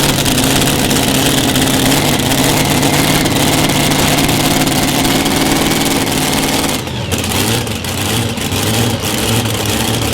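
Loud engine of a pulling vehicle running at a steady pitch. About seven seconds in it drops off suddenly and runs on rougher and lower.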